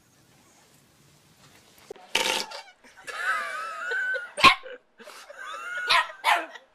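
A dog barking in short outbursts from about two seconds in, with a long wavering whine between the barks.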